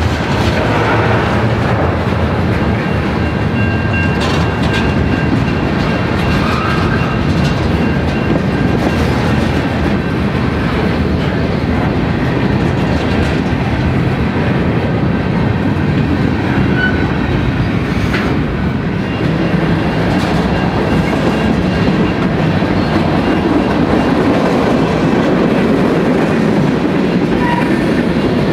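Freight train cars rolling past, their steel wheels clacking steadily over the rail joints, with a faint high whine over the rumble.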